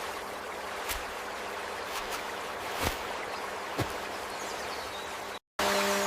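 Soft forest ambience of steadily flowing stream water, with a faint low hum underneath and three soft taps. The sound cuts out for a moment near the end and comes back a little louder.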